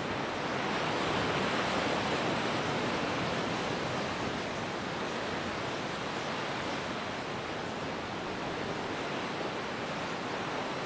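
Ocean surf washing steadily on the shore, a continuous hiss that swells slightly over the first couple of seconds.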